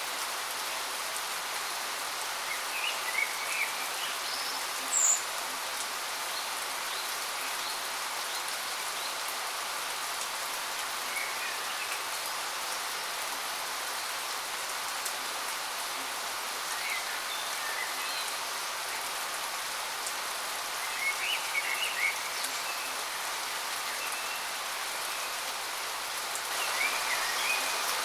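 Steady rushing hiss of a waterfall, with short bird chirps breaking through it every few seconds.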